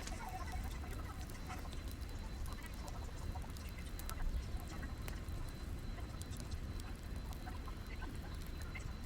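Burning firewood crackling, with scattered sharp pops and ticks over a steady low rumble.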